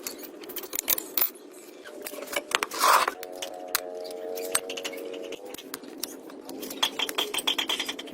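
Metal tools and parts clinking and scraping in a rapid series of sharp clicks, with a louder clatter about three seconds in. A brief steady whine follows for a couple of seconds.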